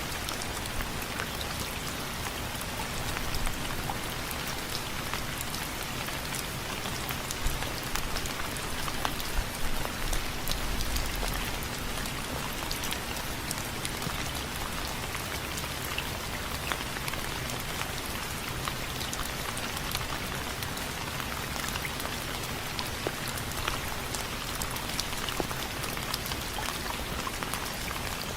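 Steady rain falling, with many individual drops ticking and pattering on a hard surface, a few heavier drops standing out now and then.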